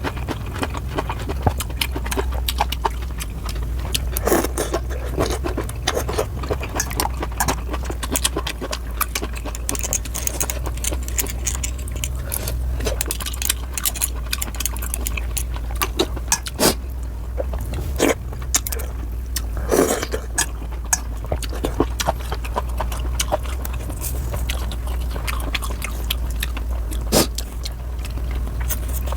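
Close-miked eating of noodles and kimchi: chewing, with many scattered sharp clicks and crackles, over a steady low hum.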